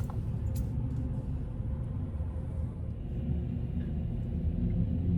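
Car rumbling low and steady, heard from inside the cabin, a little louder near the end.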